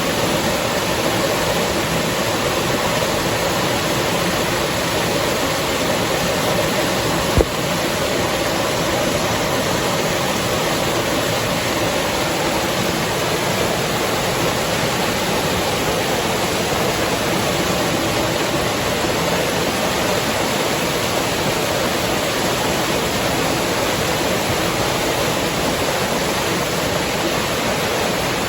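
River water rushing steadily, an even wash of noise. A single sharp click cuts through it about seven seconds in.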